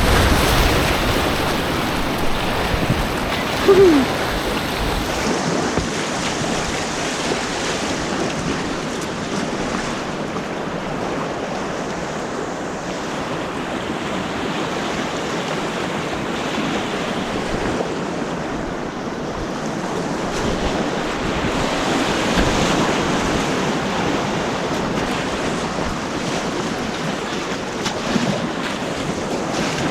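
White water rushing steadily through a whitewater course's rapids, heard from a kayak on the water. A brief louder sound about four seconds in.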